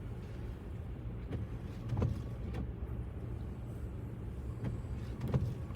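Car in four-wheel drive heard from inside the cabin, driving on a snowy, slippery road: a steady low engine and road rumble, with soft knocks about two seconds in and near the end.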